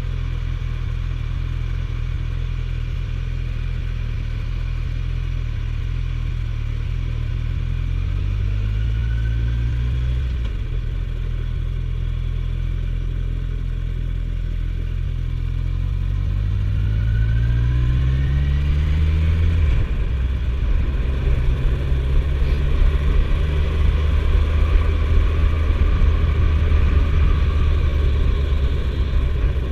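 Suzuki GSF1250S Bandit's inline-four engine under way, climbing in revs twice and dropping sharply at a gear change each time, about ten and twenty seconds in. After the second shift it runs louder.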